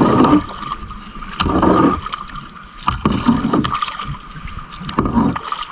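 Kayak paddling: the paddle blades dip and splash into the water in a steady stroke about every one and a half seconds, with a few light knocks.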